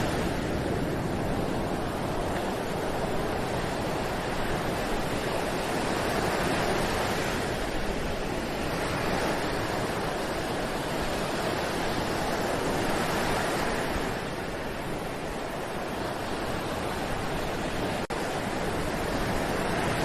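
Ocean surf breaking on a beach: a continuous wash of waves that swells and eases every few seconds, with a momentary break in the sound near the end.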